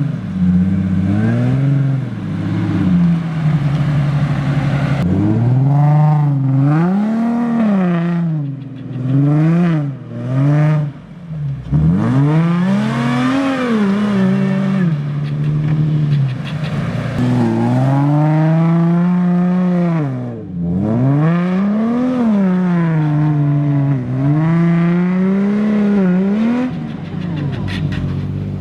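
Toyota FJ Cruiser's 4.0-litre V6 engine revving up and dropping back again and again, each climb and fall in pitch lasting a second or two, as it is driven hard.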